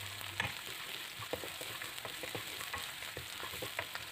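Sliced shallots and garlic frying in oil in a non-stick wok, a soft, steady sizzle, sautéed until fragrant. A wooden spatula scrapes and taps against the pan many times as they are stirred.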